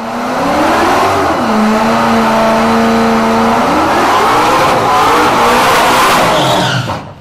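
Supercharged Ford Mustang GT's 5.0 V8 revving hard through a burnout, rear tyres spinning on the pavement. The revs climb, hold steady for a couple of seconds, climb again, then drop away and cut off about seven seconds in.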